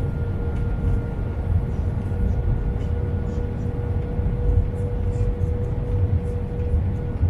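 Cabin noise inside an Airbus A320 airliner: a steady low rumble of airflow and jet engines with a constant hum running through it.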